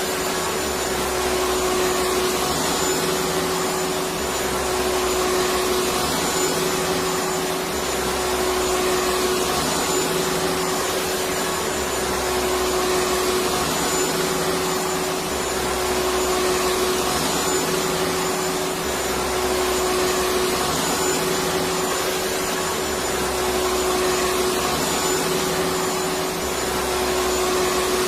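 Electric vacuum cleaner running steadily with a constant whine. A low rumble under it swells and fades about every four seconds.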